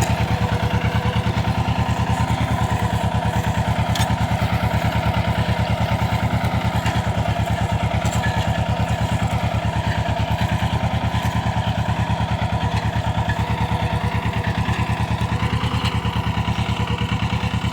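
Mahindra Jivo 225 DI tractor's two-cylinder diesel engine running steadily, with an even, rapid chugging pulse.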